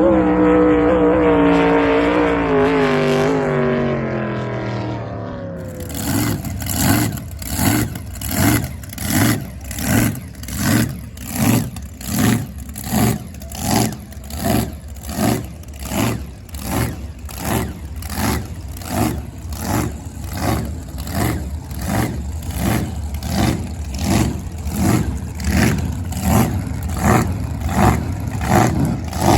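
Racing jet boat's engine running hard, its pitch falling steadily over about five seconds as it goes past and away. About six seconds in the sound changes to a steady, even pulsing, a little more than one beat a second.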